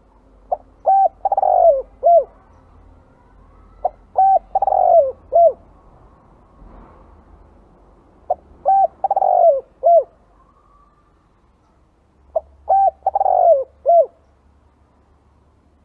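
Spotted dove cooing its song four times, about every four seconds. Each phrase is a few short coos, a longer falling coo and a short closing note, the call used as a lure to draw in wild spotted doves.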